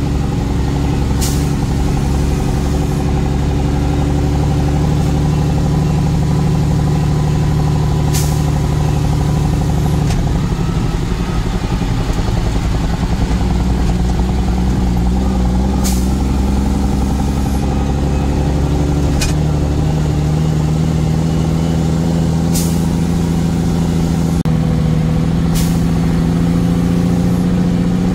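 Truck engine running steadily under way, its pitch settling a little lower about ten seconds in and rising again later. Six brief sharp ticks sound at irregular gaps.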